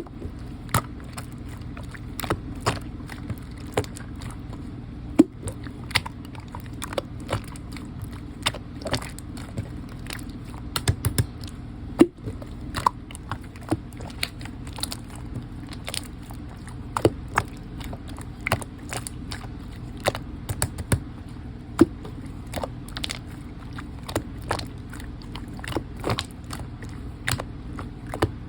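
Slime being kneaded and pressed by hand as lotion is worked into it: irregular sticky clicks and small pops over a steady low hum.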